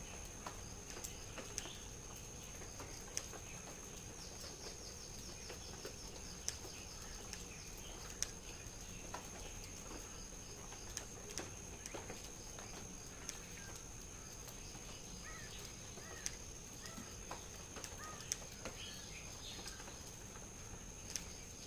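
Faint bird sounds: a few soft chirps and a quick ticking trill about four seconds in, with scattered small taps and a steady high-pitched whine underneath.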